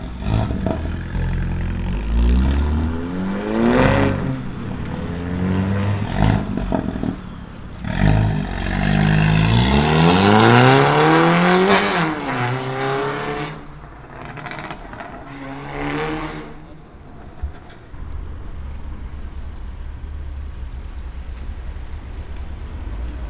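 Car engine revving hard several times as the car pulls away, each rev a rising note, the longest and loudest about ten seconds in; afterwards a steady low engine rumble.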